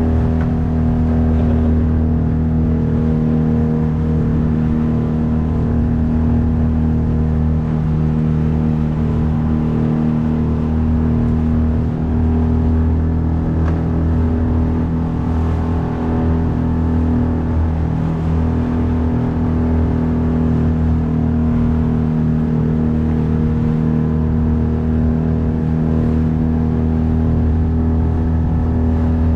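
A 9.8 horsepower outboard motor runs at a steady throttle, pushing a small boat along, with an even engine note that holds its pitch throughout.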